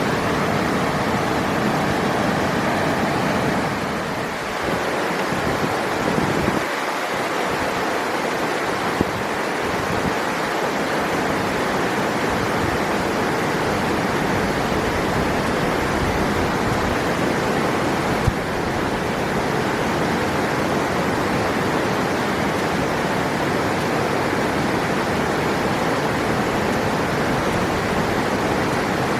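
River water rushing, a steady, full roar of flowing water.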